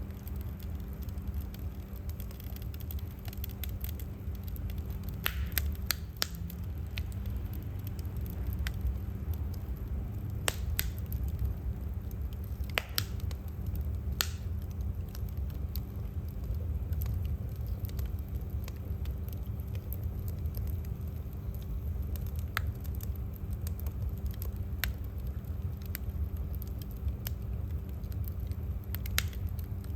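Wood fire burning in a fireplace, with irregular sharp crackles and pops from the burning firewood over a steady low rumble and faint hum.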